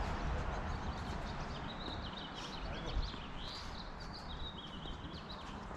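Small birds chirping, a run of short high calls, over a steady low background noise.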